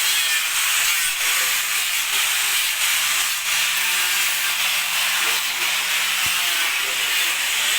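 Steady, loud hissing noise of workshop machinery, with faint voices underneath.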